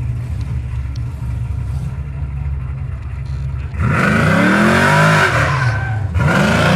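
Car engine idling with a steady low note, then revved twice, each time rising in pitch and falling back; the revs are the loudest part.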